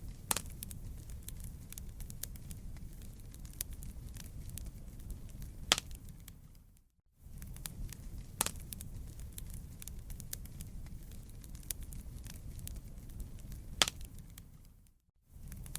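Wood campfire burning with a steady low rumble and constant crackling, broken by a few sharp pops. The sound dips briefly to near silence about seven seconds in and again near the end.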